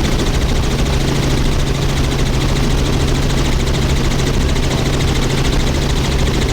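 Helicopter in flight, heard from inside the cabin: a loud, steady drone of engine and rotor noise over a constant low hum.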